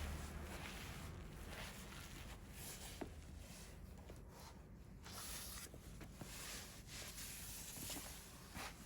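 Wood fire burning: a soft rush of flames with scattered crackles and small pops, one sharper pop about three seconds in.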